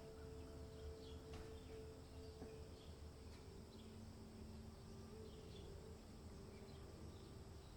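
Faint outdoor ambience: a low steady rumble with scattered short, high chirps from small wild creatures.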